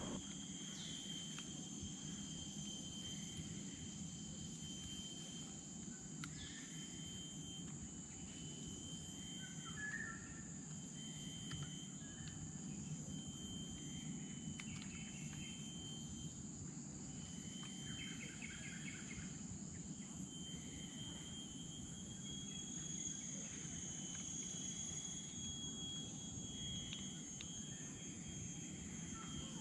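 Tropical rainforest ambience: a steady, high-pitched insect drone throughout, with a few short bird chirps scattered through it.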